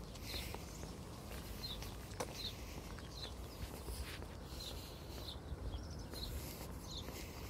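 A small bird chirping over and over, short high chirps every half second to a second, with faint footsteps and low rumble from walking with a phone microphone.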